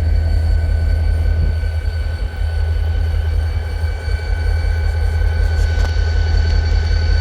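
Wheeling & Lake Erie diesel locomotive #6354 idling: a steady low rumble with a constant thin whine above it.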